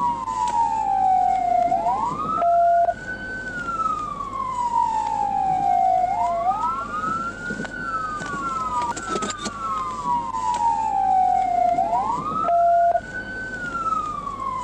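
Emergency siren wailing: each cycle falls slowly in pitch over about three seconds, then rises quickly, repeating about every four and a half seconds. A short steady beep sounds twice.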